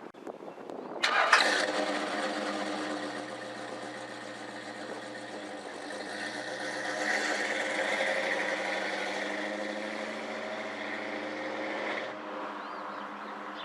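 A 1978 Chevy pickup truck's engine starts at once about a second in and keeps running, with a rise in revs around the middle before the sound drops away near the end. It is running after a repair.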